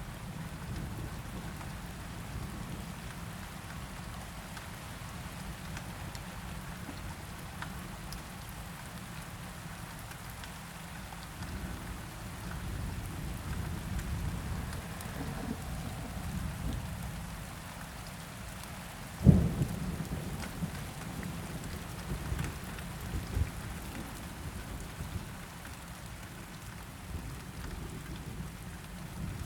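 Steady rain with low rolling thunder that swells through the middle, then a sharp thunderclap about two-thirds of the way through, the loudest moment, followed by a few smaller rumbling cracks.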